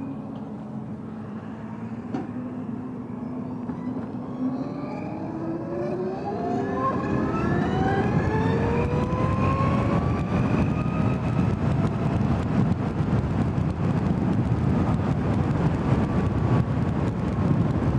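Zero S electric motorcycle's motor whine rising in pitch as the bike accelerates, over several seconds, with rushing wind noise building up and then holding steady at speed.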